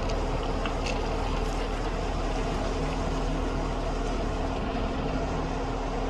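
Off-road vehicle driving slowly on a rough dirt trail, heard from inside the cab: steady engine drone with tyre and road noise, and a few faint clicks about a second in.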